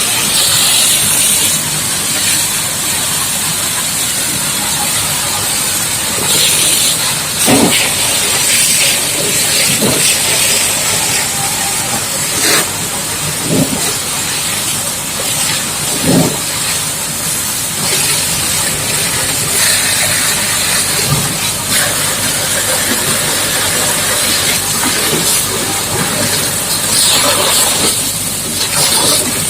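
High-pressure water jet from a booster-pump hose hissing steadily as it sprays a dump truck, with a few dull thumps along the way.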